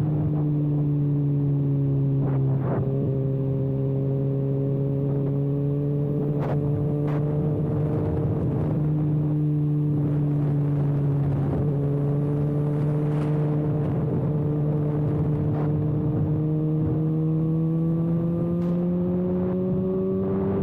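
Kawasaki ZX6R's inline-four sport-bike engine running with its exhaust canister removed, holding a steady note at cruising speed. The pitch sags a little, then rises near the end, with a few short clicks along the way.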